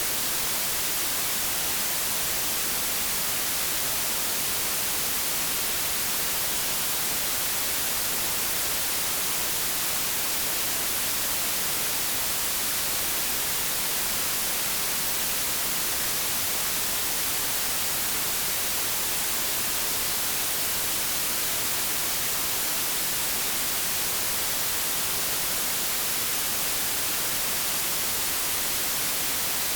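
Steady white noise static, an even hiss strongest in the high frequencies and unchanging throughout.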